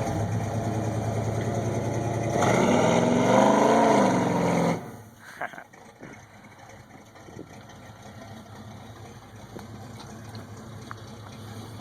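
Pickup truck engine running, then revving up about two seconds in, its pitch rising and falling. The sound cuts off suddenly near five seconds, leaving a much quieter background with a few knocks.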